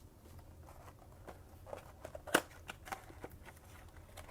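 Quiet handling of trading-card packaging and cards: light rustling and small clicks, with one sharper tap a little over two seconds in.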